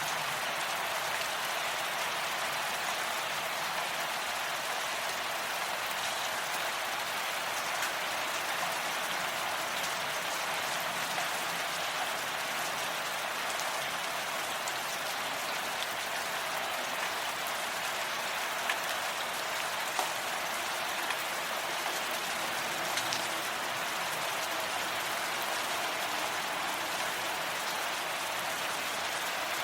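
Steady rain falling, an even hiss of many drops with a few louder single drops standing out now and then.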